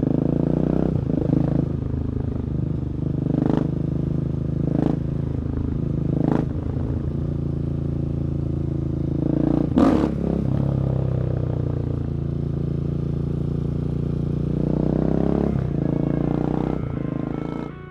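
2017 Husqvarna 701 Supermoto's single-cylinder engine running through an Akrapovic exhaust at fairly steady revs. Several sharp cracks come every second or two, the loudest about ten seconds in. The engine sound cuts off at the very end.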